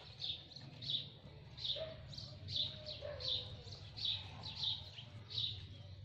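A small bird chirping over and over, one short high chirp roughly every second, over a low steady hum.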